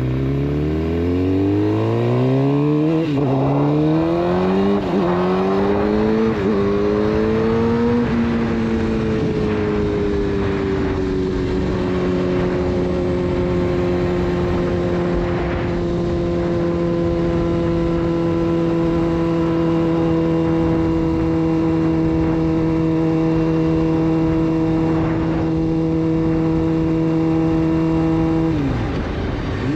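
Suzuki GSX-R 600 inline-four through a full Yoshimura exhaust, accelerating hard with the revs rising and three quick upshifts in the first seven seconds, then holding a steady cruise until the throttle closes and the revs fall near the end.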